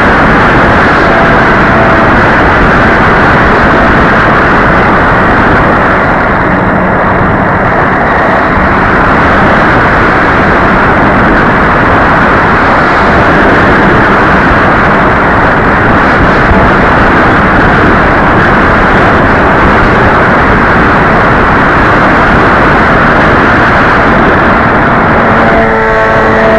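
Radio-controlled model airplane in flight: a loud, steady rushing noise with hardly any distinct pitch, unbroken throughout.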